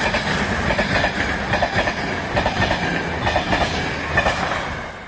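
A train passing close by, its wheels clicking rapidly over the rail joints amid steady rolling noise, which dies away near the end.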